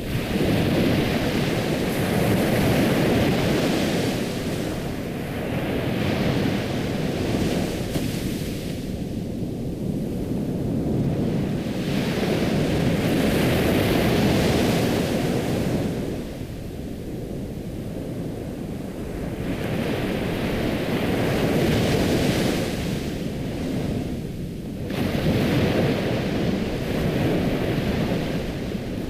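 Ocean surf: waves breaking and washing in, the rush swelling and dying away in slow surges every several seconds.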